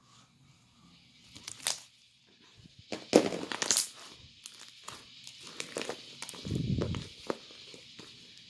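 Irregular crinkling and rustling with sharp clicks over a steady hiss, and a low thump about two-thirds of the way through.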